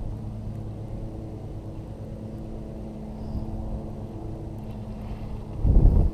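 A steady, low engine hum. A brief loud low rumble comes near the end.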